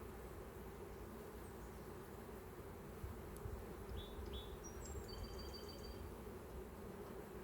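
Honeybees from an opened hive buzzing steadily, a faint even hum. A few brief high chirps come through between about four and six seconds in.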